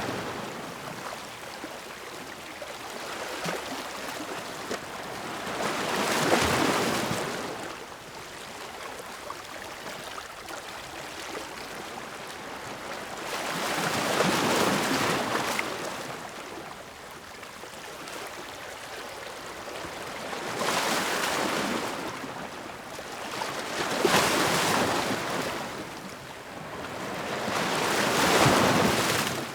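Ocean surf: waves breaking and washing in over a steady background wash. Each wave is a rising and falling rush of hiss, about five of them several seconds apart.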